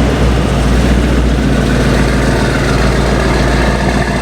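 A car's engine idling close by, loud and steady.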